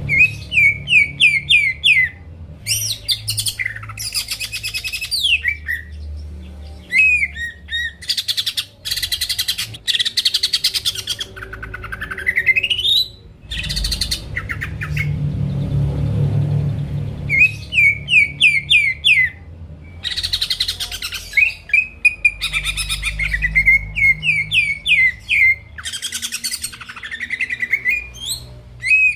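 Cucak ijo (green leafbird) singing energetically: phrases of quick repeated chirps, buzzy rattling runs and a long rising whistle about twelve seconds in, with short breaks between phrases.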